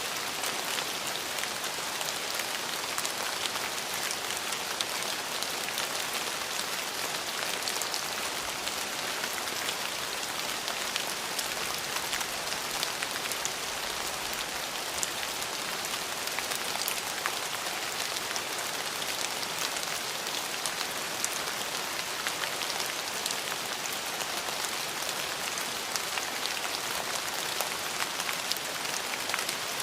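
Steady rain falling, a constant hiss with many fine drop ticks on a surface.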